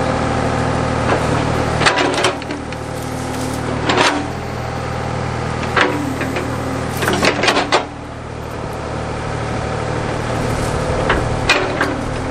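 Backhoe engine running steadily under hydraulic load, its note dipping briefly a couple of times. Several sharp knocks and clanks come from the bucket working at a stump, in clusters a few seconds apart.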